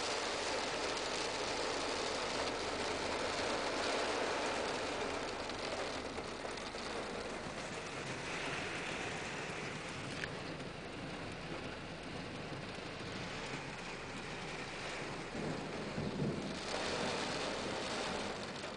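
Heavy rain beating on a car's roof and windows, heard from inside the car as a steady hiss that thins for a while midway and picks up again near the end.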